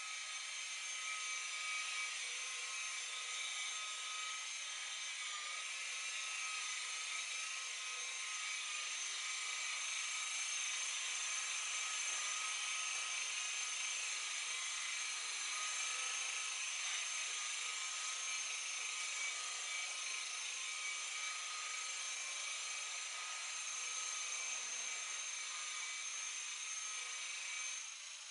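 Electric buffer running steadily with a high whine, polishing compound into an oxidised fibreglass boat hull; it winds down near the end.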